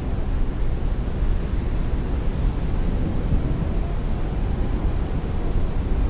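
Heavy rain beating against a window while strong wind rushes outside: a steady, unbroken noise with most of its weight in a low rumble.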